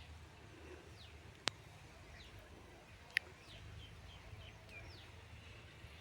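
Birds chirping outdoors: scattered short, falling high calls, with a sharp click about one and a half seconds in, over a steady low rumble.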